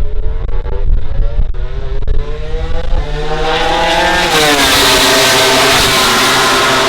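MotoGP racing motorcycle approaching at speed, its engine note rising as it gets louder, then dropping sharply in pitch as it passes about four seconds in and carrying on loud as it goes away.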